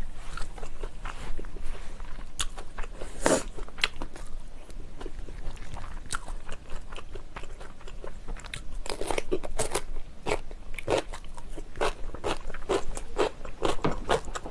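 Close-miked eating: chewing of jjajangmyeon noodles, then a run of crisp, crunchy bites and chewing, thickest in the last few seconds.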